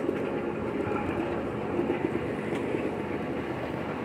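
Park railroad train running along the track, heard from aboard: a steady rumble of wheels on rail.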